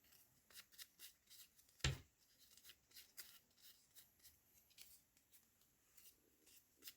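Faint paper and craft-supply handling on a work table: soft rustles and small ticks, with one louder knock about two seconds in.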